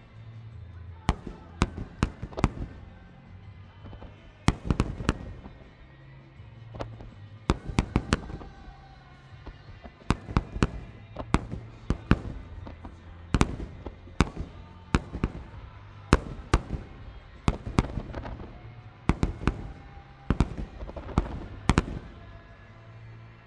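Aerial fireworks shells bursting in a rapid, irregular barrage of sharp bangs, often several in quick succession, over background music.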